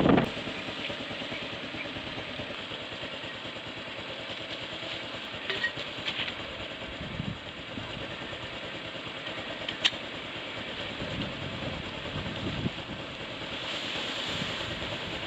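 Steady storm wind rushing over the microphone, with a few short clicks about six seconds in and one sharp click near ten seconds.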